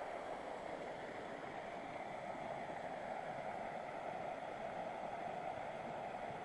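Mountain river rushing steadily over rocks in a canyon.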